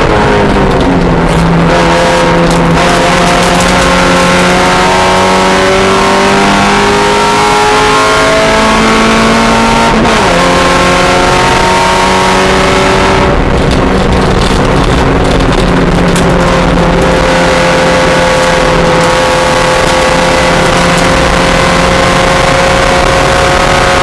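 Mazda Miata race car engine running hard at high revs under load, its pitch climbing slowly and dropping once sharply about ten seconds in, as at an upshift, then climbing again.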